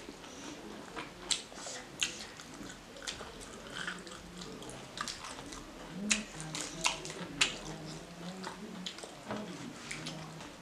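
Eating sounds from two people: wet chewing and mouth smacks of rice and pork curry, with sharp crunchy bites of fresh lettuce leaves. The crunches are loudest in a cluster a little past the middle.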